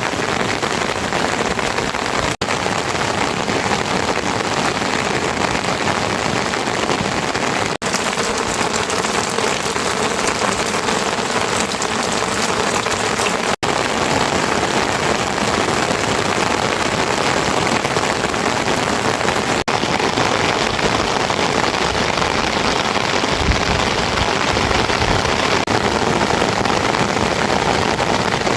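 Heavy rain pouring down in a steady, dense hiss, broken by a few split-second dropouts.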